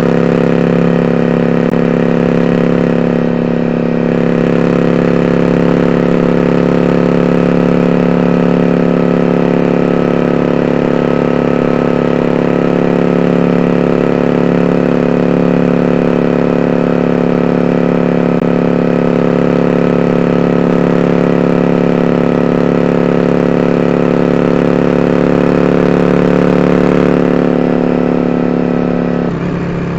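Yamaha Drag Star 400 Classic's V-twin engine running steadily through twin 4-inch open-end Supertrap mufflers with eight discs, at an even, unchanging pitch. The sound drops briefly near the end.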